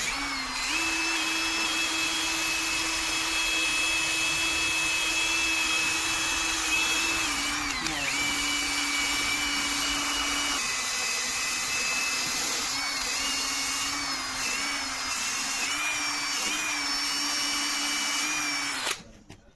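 Cordless drill with a sanding attachment running against a rusty metal chair leg: a steady motor whine over a grinding hiss. The pitch drops a little as the bit is pressed harder, and the drill stops near the end.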